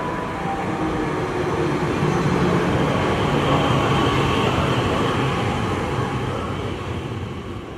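A train passing, its running noise and low hum growing louder over the first few seconds and then fading away.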